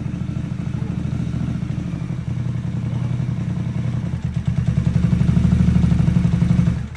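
Harley-Davidson Sportster S's 1250 cc V-twin idling through a Jekill & Hyde aftermarket exhaust, a deep, fast pulsing beat. It grows louder about four and a half seconds in, then stops abruptly just before the end.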